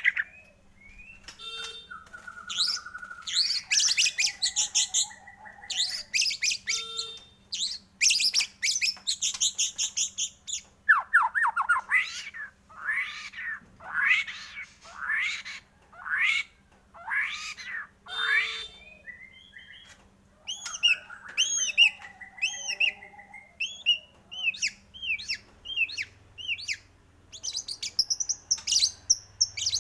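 White-rumped shama (murai batu) singing a long, varied song. It opens with harsh rasping notes, then gives a run of quick downward-sweeping whistles about once a second in the middle, then rapid rising-and-falling chirps, with rasping notes again near the end.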